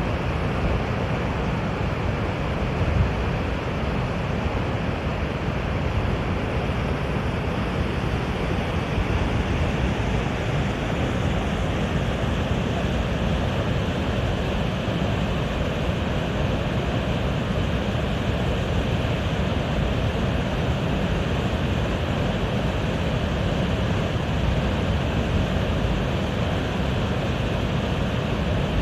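Mountain river flowing, a steady rushing of water with a deep rumble underneath.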